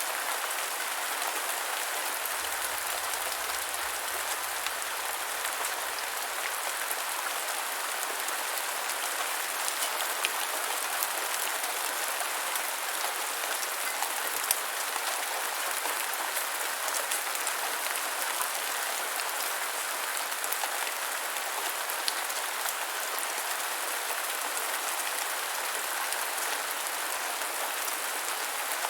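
Steady gentle rainfall: an even hiss of falling rain, with now and then a single louder drop ticking.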